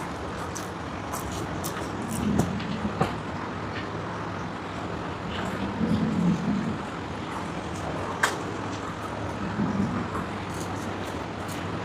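Chewing and mouth clicks of someone eating, with a sharper click about eight seconds in, over steady background noise.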